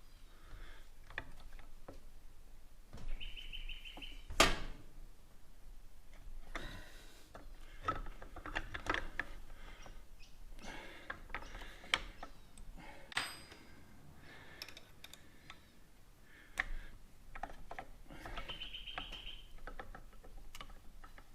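Scattered metal clicks and knocks of hand tools working on a motorcycle fork, with one sharper knock about four seconds in, as a fork leg bolt is tightened with an Allen key. A bird gives a short, rapid trill twice, once near the start and once near the end.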